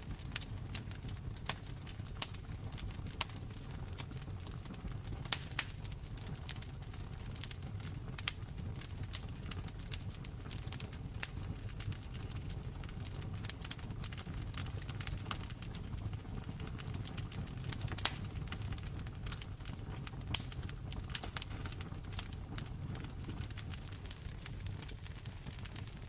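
Wood fire crackling in a fireplace: a steady low rumble of flames under frequent small snaps and pops, with a few louder pops scattered through.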